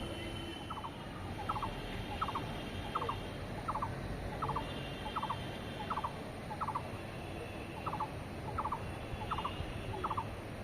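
A bird calling over and over, short clusters of two or three quick chirps repeating about every half second to a second, over a steady low background noise.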